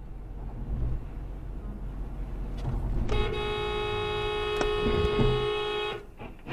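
A car horn sounding one steady blast of about three seconds that cuts off suddenly, over the low rumble of road traffic.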